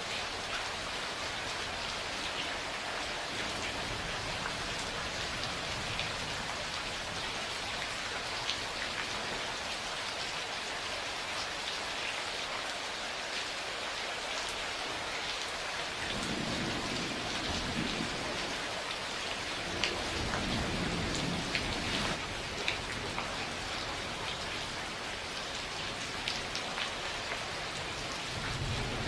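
Steady rain falling, with scattered sharp drops close by. About halfway through, a low rumble of thunder rolls for several seconds, and another begins at the very end.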